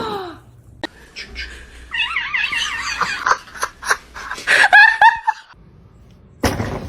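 A cat calling: a run of quick wavering calls, then a louder call that falls in pitch about five seconds in. A short sharp noise comes near the end.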